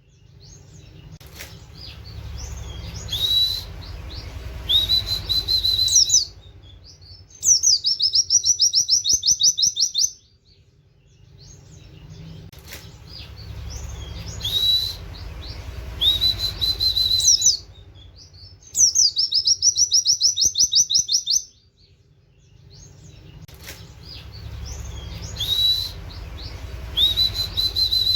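A white-eye (pleci) singing in fast high trills and short rising 'wit wit' whistles, the canary-like phrases it has learned. The same run of phrases comes back about every 11 seconds, with a low hiss under the song.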